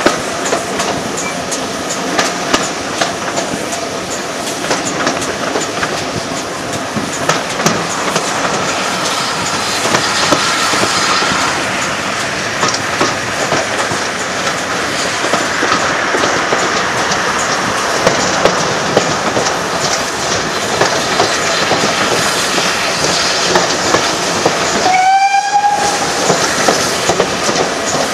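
Heritage railway train running along the line: a steady rolling rumble with a continual clickety-clack of the wheels over the rail joints. About three seconds before the end, a short high-pitched toot from the train sounds once.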